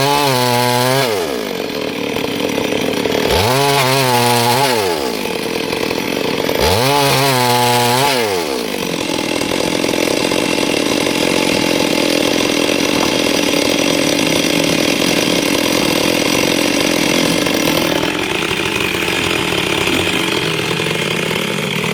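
Stihl MS382 two-stroke chainsaw revving up and dropping back three times. From about eight seconds in it runs steadily at high revs under load, the chain cutting through wood.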